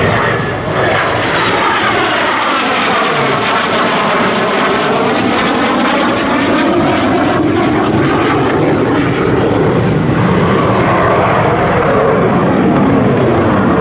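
Dassault Super Étendard jets, with SNECMA Atar turbojets, flying past loudly; the tone of the jet noise sweeps down and then rises again as they pass.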